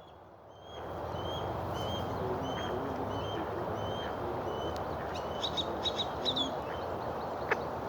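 Birds chirping: a regular series of short high chirps about two a second, with a brief flurry of louder chirps past the middle, over a steady background rush.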